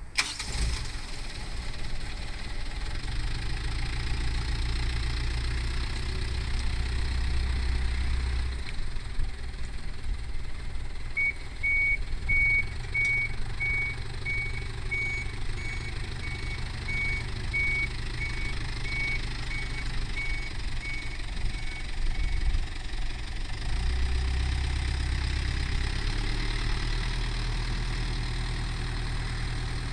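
Mitsubishi Canter truck's 4D35 four-cylinder diesel engine idling steadily. From about 11 s in, and for about eleven seconds, a reversing warning beeps steadily about twice a second.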